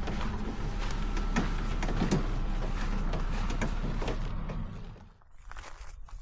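A steady mechanical hum with scattered knocks and clatter, which cuts off about five seconds in.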